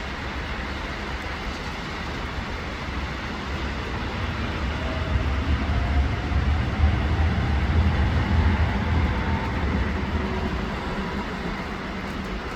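Steady rain hiss with a heavy vehicle passing: a deep rumble swells to its loudest around the middle and fades away, with a faint rising whine as it goes by.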